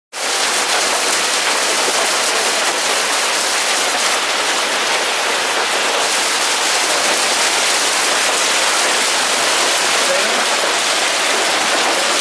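Pea-sized hail falling steadily: a dense, even hiss of countless small pellet impacts that keeps up without a break.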